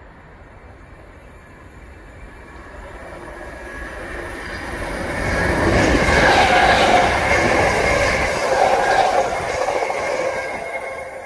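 A train passing close by: it grows louder over the first six seconds, is loudest from about six to nine seconds in with a steady high whine over the rumble and rattle of the wheels, then fades.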